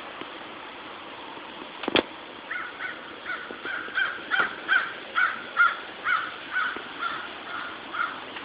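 A single sharp knock about two seconds in, then a bird calling over and over, about two harsh calls a second.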